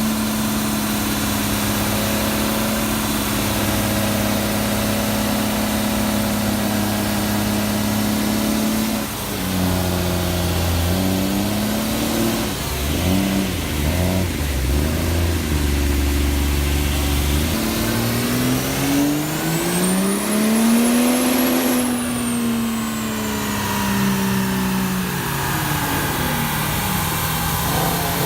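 Car engine held at a steady speed, then blipped several times, then revved up in one long climb and let back down, with a high whine rising and falling along with it.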